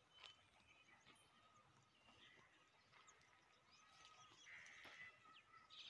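Near silence: faint outdoor ambience with scattered distant bird calls.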